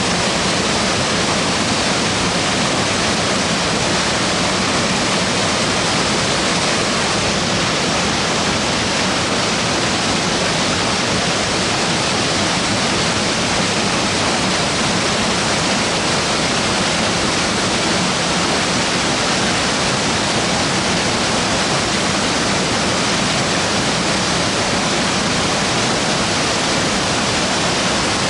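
Watari-no-taki waterfall: falling water rushing in a loud, steady hiss that never changes.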